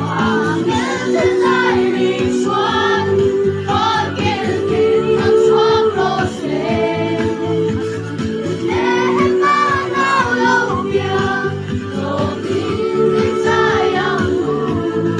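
Singing with instrumental accompaniment: a sung melody over steady held chords.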